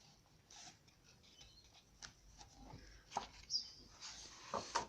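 Faint handling of a colouring book's thick pages: soft taps and rustles, with a longer paper slide or page turn from about three and a half seconds in.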